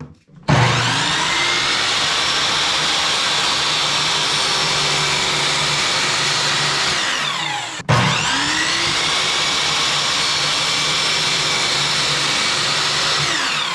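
Electric power tool's motor spinning up, running steadily, and winding down, twice in a row.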